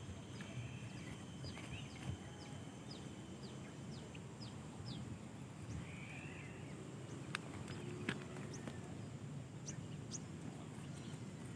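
A small bird giving short, high, downward chirps at irregular intervals over steady low background noise, with a couple of sharp clicks around the middle.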